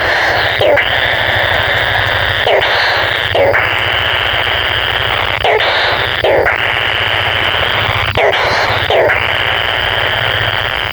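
A kingfisher giving loud, harsh, rattling calls in long runs of about two to three seconds, broken every few seconds by short pauses, over a steady low hum.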